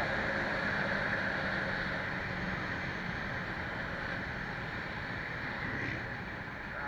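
Steady wind and road noise of a motorcycle ride, easing off slightly over the few seconds.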